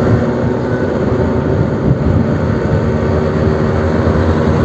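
Suzuki RC100 Bravo's single-cylinder two-stroke engine running at a steady speed through a new aftermarket exhaust.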